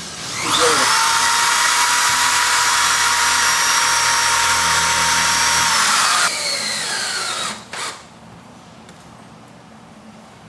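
Electric drill boring an anchor hole: the motor whines up to speed about half a second in, runs steady and loud for about six seconds, then drops off and winds down with a falling pitch.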